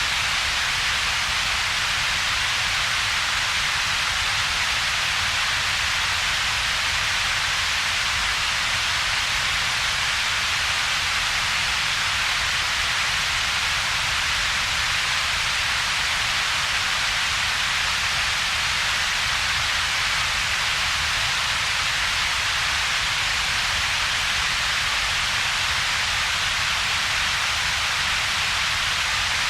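Synthetic double-peaked noise: a steady, unchanging hiss with a strong hump around 2–4 kHz and a weaker rumble below about 200 Hz, with a gap between them near 300 Hz.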